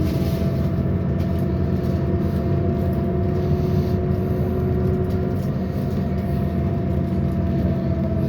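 Scania CN280UB CNG city bus driving, heard from inside: a steady low engine and road rumble with a steady whine over it, the whine dipping slightly in pitch near the end.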